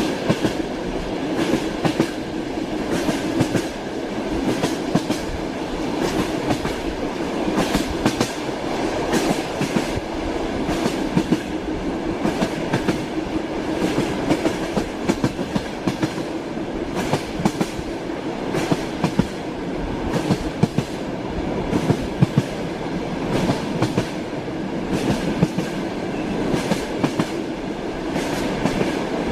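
Train wheels running over the rails: a steady rumble with frequent short, sharp clicks as the wheels pass rail joints.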